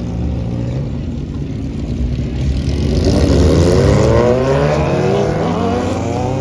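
Car engine revving hard as it accelerates away, its note climbing steadily in pitch from about two and a half seconds in and loudest near the middle.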